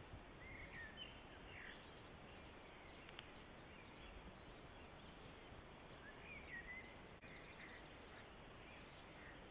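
Faint chirps of small birds in a few short clusters, about half a second to two seconds in and again around six to seven seconds, over a steady faint hiss.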